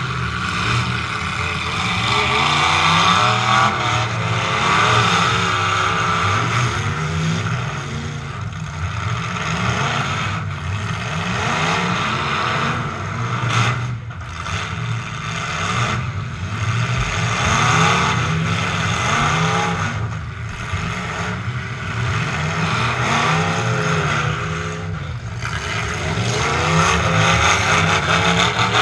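Demolition derby truck's engine revving hard and dropping back over and over, its pitch rising and falling repeatedly, with a few brief sudden dips as the throttle comes off.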